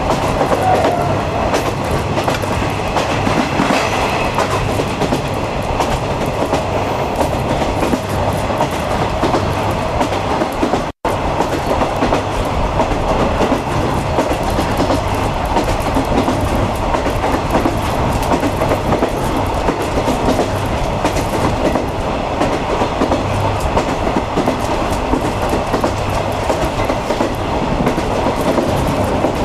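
Running noise of a DD51-hauled 50-series passenger coach: the train's wheels rolling on the rails at speed, heard as a steady rumble. The sound cuts out for an instant about eleven seconds in.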